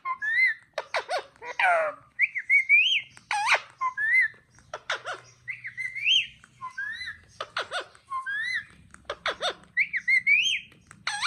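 Talking green parrot chattering: a rapid string of short whistled, rising-and-falling phrases broken by sharp squawks and clicks, the same phrase shapes repeating over and over.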